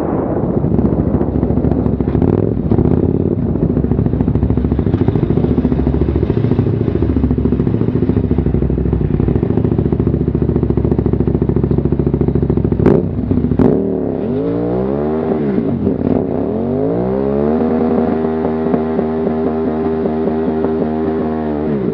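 Enduro motorcycle engine revved hard, its pitch swinging up and down for a few seconds and then held high and steady for about four seconds in a burnout, before dropping off near the end. Two sharp clacks come about halfway through.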